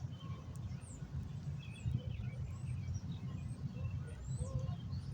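Low, gusting wind noise on the microphone, with small birds chirping: scattered short high chirps and several quick sliding high calls.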